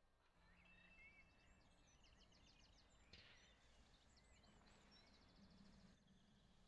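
Faint birdsong: several birds chirping and trilling over quiet open-air ambience, with one short click about three seconds in.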